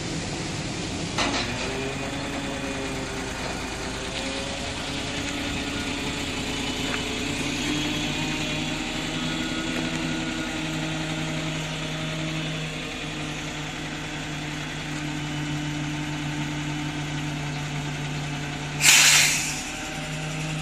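Isuzu GXZ CNG truck engine running steadily, turning a twin PTO that drives the hydraulic pump to raise the dump body; the hum steps up slightly a few seconds in. There is a click about a second in, and a short loud hiss of air near the end.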